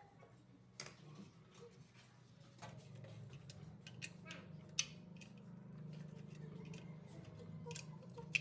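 Scattered sharp clicks and taps of small metal parts and tools being handled, over a low steady hum that grows stronger about two and a half seconds in.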